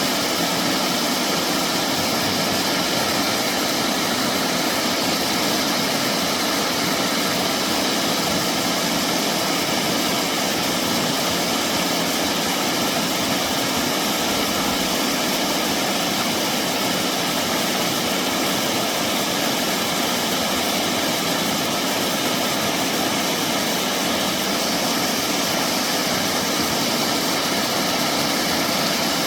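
Steady rushing of a mountain stream flowing over rocks, an even, unbroken wash of water noise.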